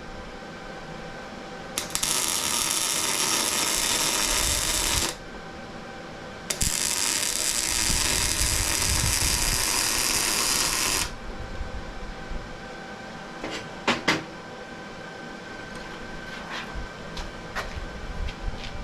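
Welding on steel spindle plates: two runs of steady crackling hiss, the first about three seconds and the second about four and a half, with a short pause between. After them come a few sharp metallic clicks and knocks.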